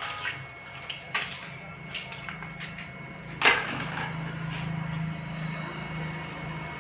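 Several sharp knocks and clicks, the loudest about three and a half seconds in, over a steady low hum.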